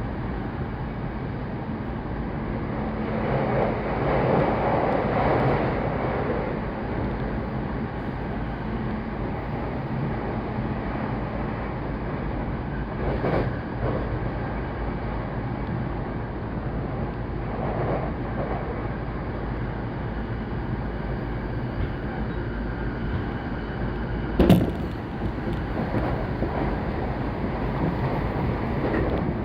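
Interior running sound of a JR Saikyo Line commuter train at speed: a steady rumble of wheels on rail with the hum of the drive underneath. The noise swells briefly near the start, and a single sharp knock comes about three-quarters of the way through.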